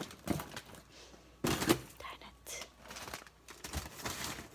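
Plastic-wrapped frozen food packages rustling and knocking as they are moved about in a freezer, in several short bursts, the loudest about one and a half seconds in.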